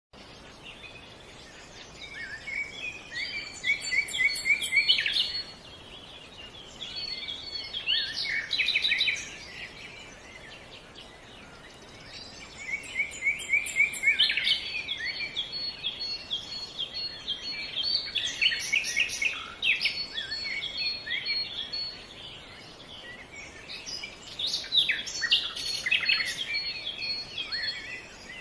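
Songbirds singing in bursts of quick, varied chirping phrases, several seconds each, with a faint steady background hiss between them.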